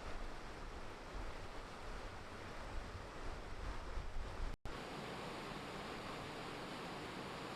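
Steady rush of running meltwater, with wind buffeting the microphone in gusts. The sound cuts out for an instant about four and a half seconds in, then the rush goes on more evenly without the wind rumble.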